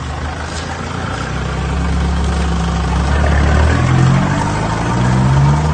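Car engine running at close range, growing louder, its note stepping up in pitch past the middle.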